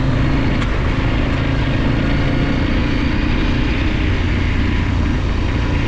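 Large adventure motorcycle's twin-cylinder engine running steadily under way on a dirt trail, with wind and riding noise.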